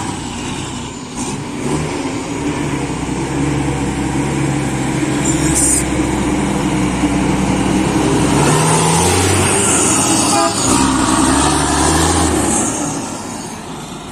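Mack truck's diesel engine pulling hard. Its note steps in pitch several times, gets louder through the middle and fades near the end.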